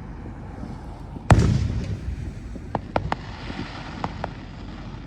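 Fireworks: one loud boom about a second in that dies away over about half a second, followed by a scatter of sharp cracks and pops over the next couple of seconds.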